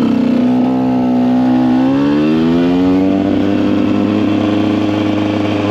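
KTM EXC 125 two-stroke single-cylinder engine running. Its revs sag a little in the first second or so, climb smoothly over about a second, then hold steady.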